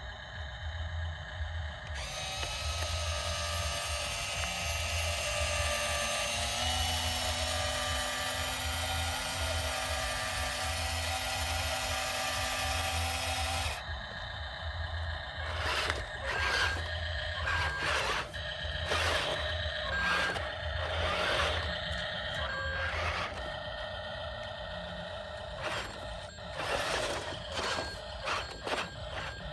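Small electric motors and gearboxes of remote-control construction toys whining. A steady whine steps up slightly in pitch partway through, then breaks off about halfway into short whirs that start and stop in quick succession.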